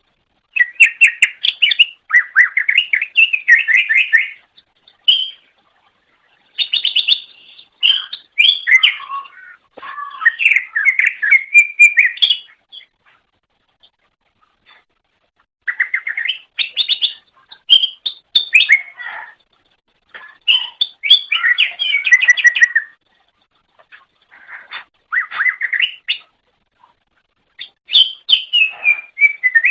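Cucak ijo (greater green leafbird) singing in bursts of rapid, chirping trills, each phrase lasting a few seconds with short pauses between, some phrases sliding down in pitch.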